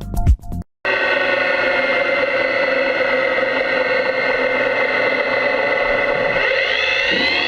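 CNC lathe machining a steel crankshaft: a steady, many-toned machine whine with cutting noise. Its pitch rises together near the end as the spindle speed changes.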